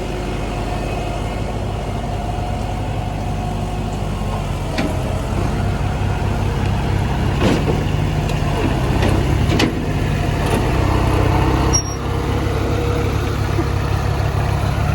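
Diesel tractor engine running steadily. It grows louder from about five seconds in, with a few sharp knocks, then drops abruptly about twelve seconds in.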